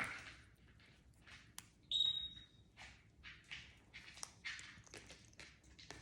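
An African grey parrot gives a single steady, high, pure whistle about two seconds in, lasting about half a second, among soft rustles and taps.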